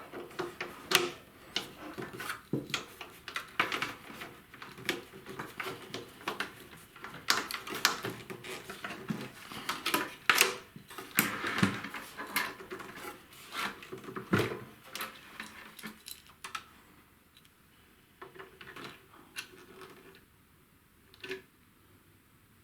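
Irregular clicks and clatters of small metal and plastic parts being handled while the wire feed of a flux-core welding machine is set up. They come thick and fast for most of the time and thin out to a few knocks near the end.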